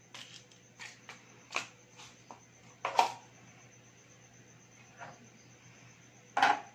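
Irregular small clicks and taps of hard objects being handled, the loudest about three seconds in and near the end.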